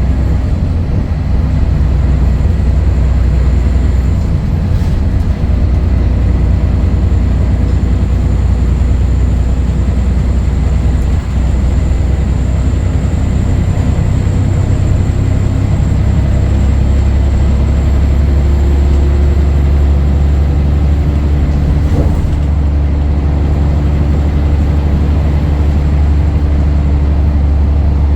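Scania DSC11 diesel engine of a Scania L113CRL bus running steadily under way, its note changing and growing heavier about two-thirds through. A single sharp knock comes near the end.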